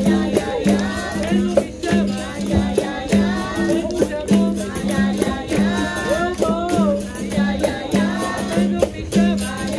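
Capoeira roda music: a berimbau plays a repeating low note in a steady rhythm with a caxixi rattle, under call-and-response group singing and sharp percussive strikes.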